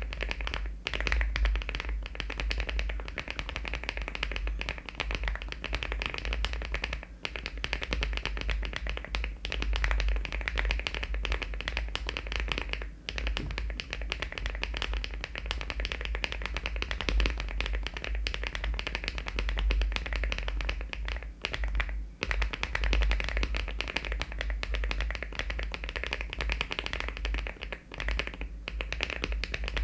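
Fast continuous typing on a LEOBOG Hi75 aluminium-cased mechanical keyboard with HMX switches and Cherry-profile keycaps: a dense stream of key clacks broken by a few brief pauses.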